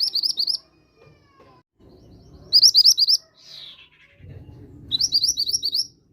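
Mantenan gunung (bushchat) singing: short, fast phrases of sharp, rapidly repeated high notes, one every two to two and a half seconds.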